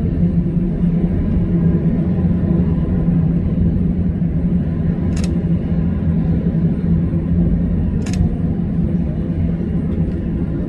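Jet airliner engines running with a steady low rumble and hum, with two short sharp clicks about five and eight seconds in.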